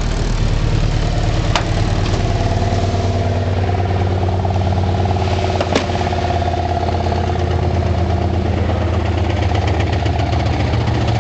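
Old truck's engine running steadily, with two sharp clicks, one about a second and a half in and one near six seconds.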